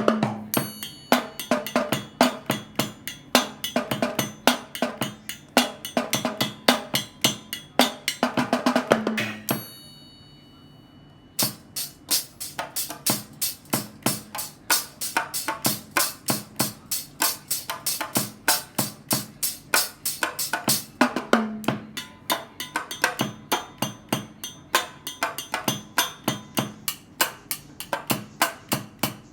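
Homemade miniature drum kit built from tin cans, with two small cymbals, played in fast drum patterns. About ten seconds in the beating stops briefly while a cymbal rings and fades, then the playing starts again.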